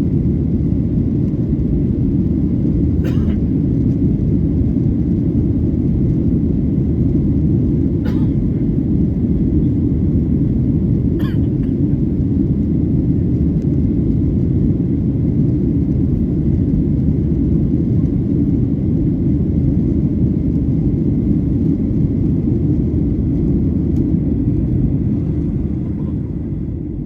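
Steady low rumble inside a Boeing 737-800 cabin in the climb, the CFM56-7B turbofans and airflow blending into one even roar. Three faint clicks sound over it.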